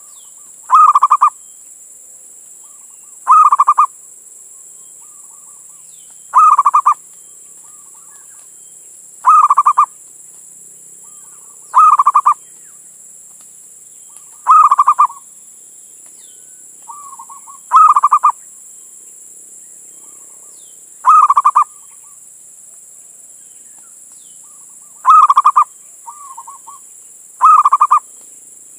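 Male zebra dove (perkutut) cooing: a loud rolling, trilled coo about every three seconds, ten in all, with softer short coos between some of them. This is the male's advertising call to females, the song used to lure other zebra doves.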